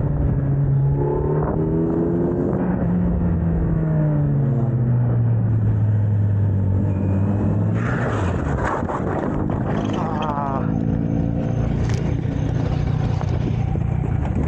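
Motorcycle engine running at speed, its note rising and then falling. About eight seconds in, a loud rushing noise joins the engine.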